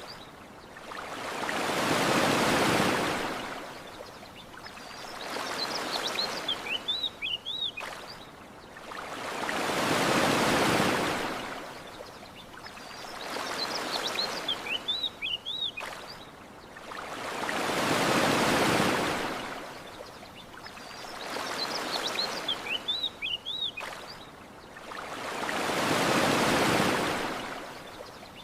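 Ocean waves washing onto a sandy shore, a big swell rising and falling about every eight seconds with a smaller one between. Short bird chirps come in the lull before each big wave, the whole pattern repeating on the same eight-second cycle.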